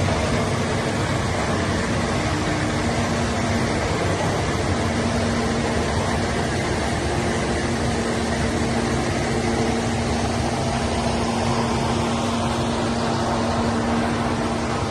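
Heavy diesel truck engine, the SHACMAN F3000's Weichai WP12 400 hp six-cylinder, running at a steady speed with an even, unchanging drone.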